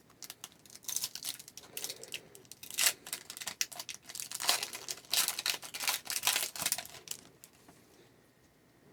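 Hockey card pack wrapper being torn open and crinkled, in irregular rustling bursts that die away about seven seconds in.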